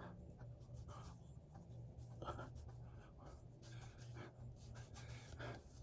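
Hands rubbing beard oil into a beard, a faint scratchy rustle of fingers working through the hair, over a low steady hum.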